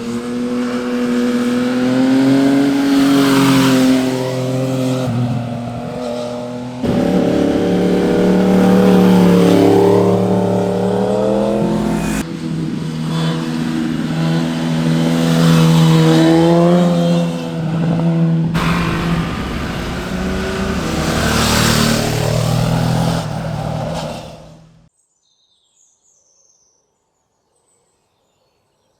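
Motorcycles riding past one after another, each engine note rising and then falling as the bike goes by, in several clips joined by sudden cuts. The engine sound stops abruptly about 25 seconds in, leaving near silence.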